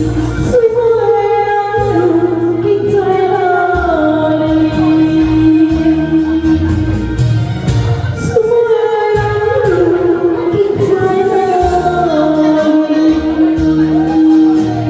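A solo singer's voice over a karaoke backing track, holding long, wavering notes that slide from one pitch to the next.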